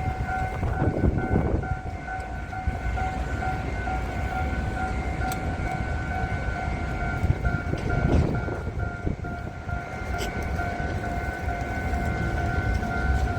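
Rail maintenance vehicle running during shunting: a steady high whine over a low rumble, swelling briefly about a second in and again around eight seconds in, with a few sharp clicks.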